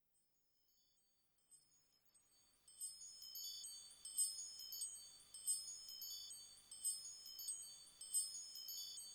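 High, clear bell-like chimes fading in from near silence, then struck in a cluster about every second and a quarter, the recorded intro of a pop song.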